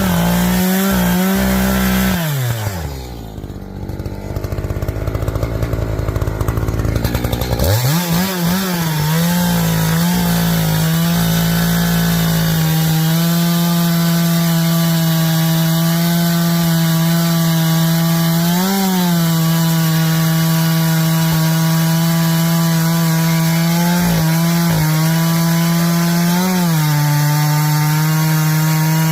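Echo two-stroke chainsaw at full throttle cutting noodles lengthwise along the grain of pine. About two seconds in the revs drop to idle for several seconds, then climb back and waver briefly before running steady at high revs, with a short rise in pitch now and then.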